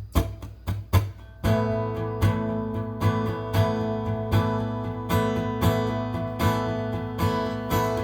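Acoustic guitar intro: muted percussive strums for about the first second and a half, then ringing strummed chords in a steady rhythm.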